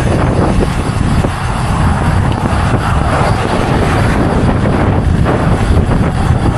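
Loud, steady wind buffeting the microphone of a cyclist riding into strong wind, a rumbling noise heaviest in the lows.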